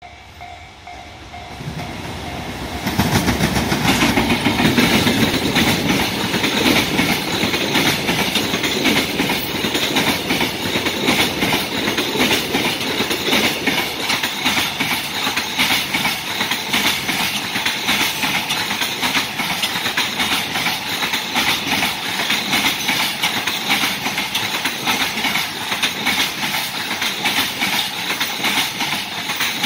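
Freight container train passing at speed. It grows loud quickly about three seconds in as the train reaches the camera, then keeps up a steady rushing clatter, with the wheels rapidly clacking over the rail joints as the wagons go by.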